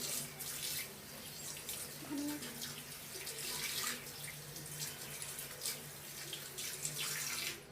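Water running from a tap into a sink, with uneven splashing.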